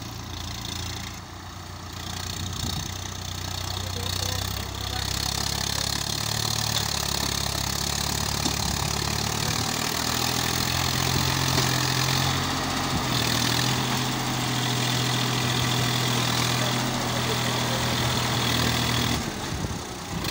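Swaraj 963 FE tractor's three-cylinder diesel engine running as it works the field, its pitch stepping up and down as engine speed changes. It grows louder about two seconds in and drops back near the end.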